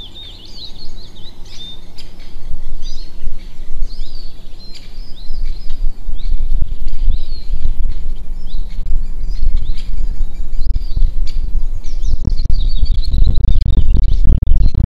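Small birds chirping and twittering in quick, repeated swooping calls. Underneath is a low, uneven rumble that builds from about halfway through and becomes the loudest sound near the end.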